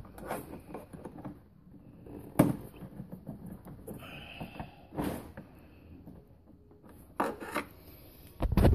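Scattered knocks, clicks and rubbing as bolts and hand tools are worked into a motorcycle's plastic fairing, the sharpest knock about two and a half seconds in.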